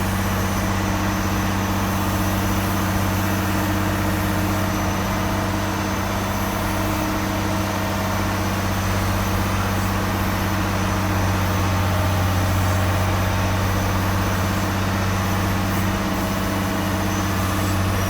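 Heavy engines running steadily during an airliner pushback: a constant low hum with a faint high whine above it.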